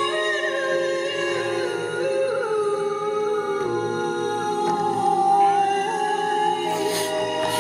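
Wordless improvised vocal music: several overlapping held tones, hummed or sung, sliding slowly between pitches like a small choir. A brief breathy hiss comes about seven seconds in.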